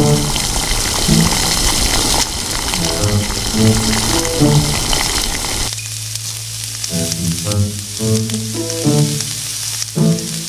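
Tomato thokku sizzling in a small metal pan over a wood fire, water just added to it; the sizzling drops away about six seconds in. Background music with short melodic notes plays throughout.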